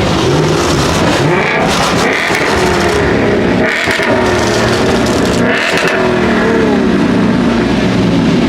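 Car engine revving, its pitch rising and falling several times in quick blips.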